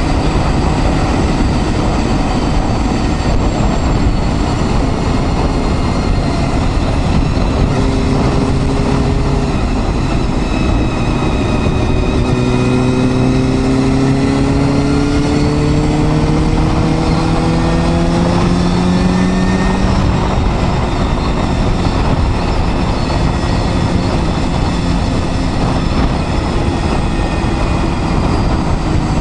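Honda Hornet 250's inline-four engine running on the move under a steady rush of wind and road noise. Its note climbs slowly as the bike accelerates from about twelve to twenty seconds in, then drops back.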